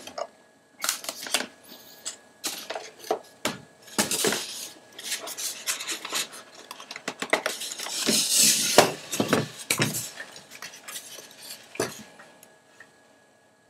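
Irregular clicks, knocks and rubbing of hard objects being handled, with short clattering bursts and no steady motor sound.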